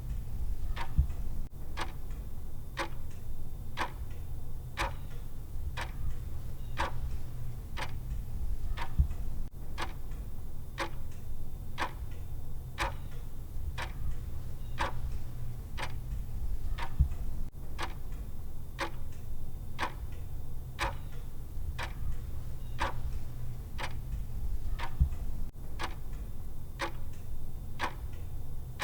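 Clock-style timer tick sound ticking steadily, about two ticks a second, over a low steady hum.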